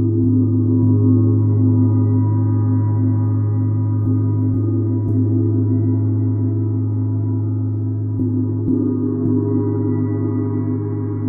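A large gong played with soft mallet strokes, its deep, many-toned ringing hum sustained without a break. Fresh strikes come near the start and again in a cluster around eight to nine seconds in, where the sound swells a little.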